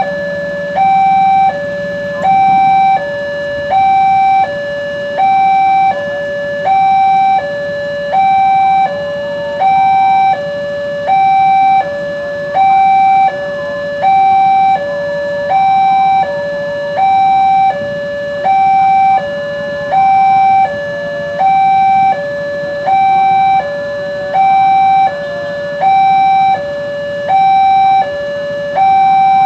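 Railroad level-crossing warning alarm sounding a steady two-tone high-low signal, each tone about three quarters of a second long and repeating without a break, the warning that a train is approaching or passing.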